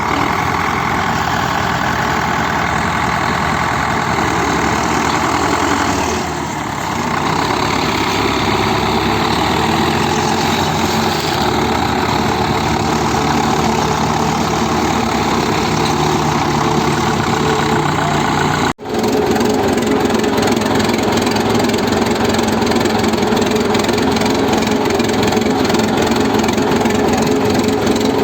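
Hindustan tractor's diesel engine running steadily while hauling a sugarcane trolley. It dips briefly about six seconds in, and a sudden cut about two-thirds of the way through brings a lower, steadier engine drone.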